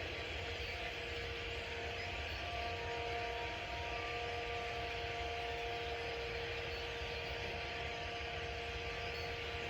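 A steady hiss and low rumble, with several faint, level humming tones held for seconds at a time. No separate bird calls stand out.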